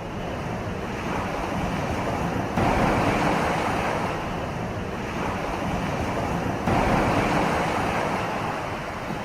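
Steady rushing noise with no animal call in it. It steps up suddenly in level about two and a half seconds in and again near seven seconds.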